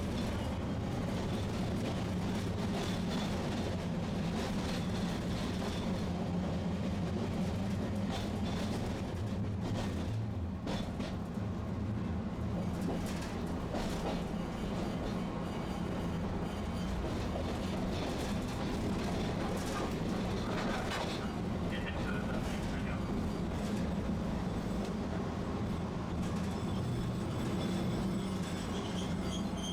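Tosaden Kōtsū streetcar running on its rails: a steady low hum of motors and wheels, with occasional short clicks.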